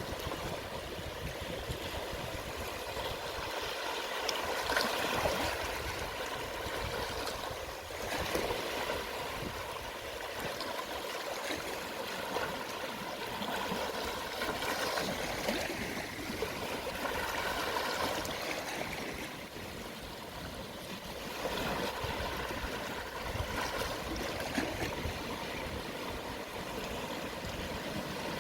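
Calm small waves washing onto the shore at low tide: a steady hiss of moving water that swells and eases every few seconds.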